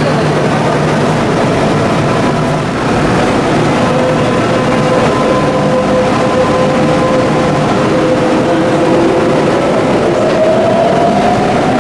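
Electric commuter train running with a steady motor whine over the rumble of wheels on track. The whine rises in pitch about nine seconds in as the train picks up speed.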